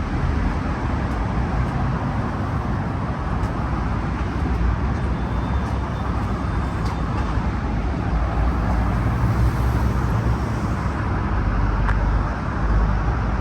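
Steady city street traffic noise: a low vehicle rumble with road hiss, and a few faint ticks.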